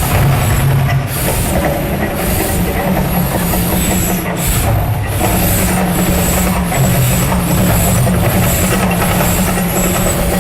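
The Mirage volcano attraction erupting: a loud, continuous low rumble with repeated surges of hissing over it.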